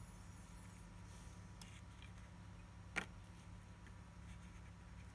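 Near silence with a steady low hum, a few faint light clicks, and one sharp click about three seconds in.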